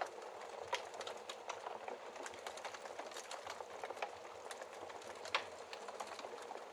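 Wood fire burning in a fireplace: a steady hiss of flames with irregular crackles and pops from the burning logs, including sharper snaps about a second in and again about five seconds in.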